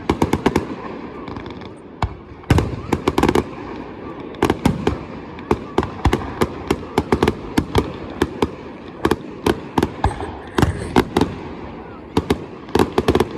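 Fireworks going off: many sharp bangs and crackles in quick clusters, one after another throughout.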